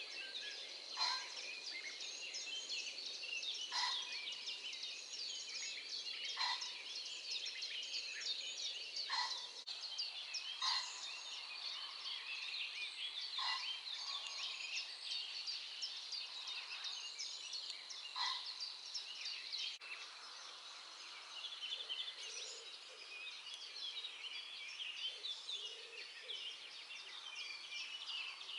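Dawn chorus of many songbirds twittering and trilling, with one louder call repeating about every three seconds and a thin, steady high tone under the chorus that fades out about two thirds of the way through.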